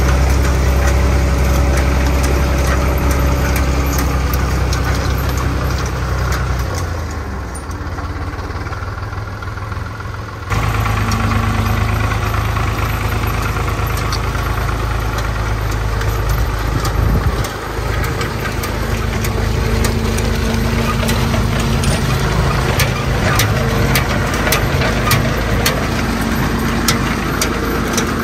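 Zetor 3011 tractor's diesel engine running, with a clattering note. The engine sound drops back for a few seconds about a quarter of the way in, then comes back up to a steady run.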